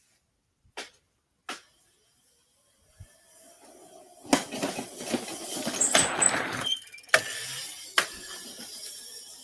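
Electric dirt bike being ridden: sharp clicks, then from about four seconds in a loud rattling noise with knocks, easing into a steadier rattle.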